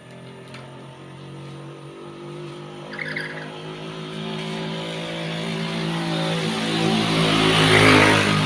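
A motor vehicle passing by, its engine and road noise growing steadily louder to a peak near the end and then starting to fade. About three seconds in, a lory gives one short squawk.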